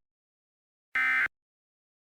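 Emergency Alert System SAME digital data burst: a short, harsh buzzy warble about a second in, the end of another just at the start, part of the three-burst end-of-message code that closes a weather radio alert.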